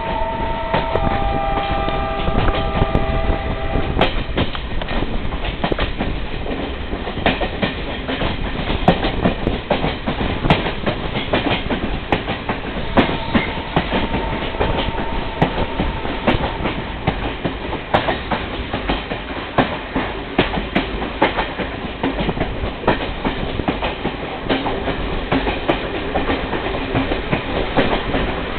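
Train running on the rails: a steady rumble with rapid clicking and clatter of the wheels over rail joints. A multi-tone horn sounds for about the first three seconds.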